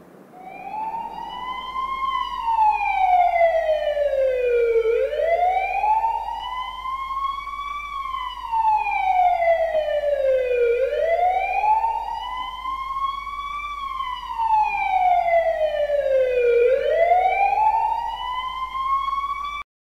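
A siren wailing slowly, its pitch rising for about two seconds and falling for about three, over and over, then cutting off suddenly near the end.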